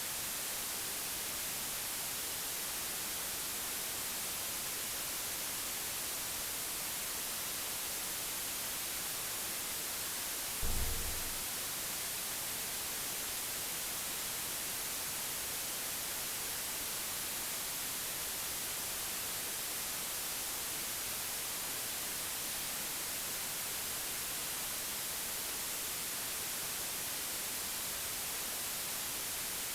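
Steady white noise, an even hiss strongest in the treble. A single brief low thump about ten seconds in.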